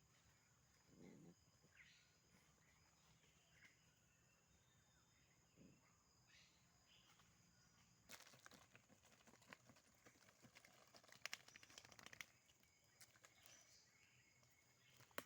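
A dog digging at a rat hole, its paws scratching at the soil in a dense run of scratches about halfway through, after a quieter stretch with only a few faint sounds.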